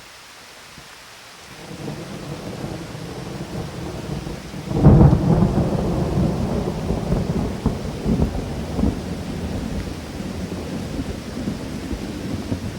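Thunder over steady rain. A low rumble builds about a second and a half in and peaks in a loud clap about five seconds in. It then rolls on with crackles and slowly eases while the rain hiss continues.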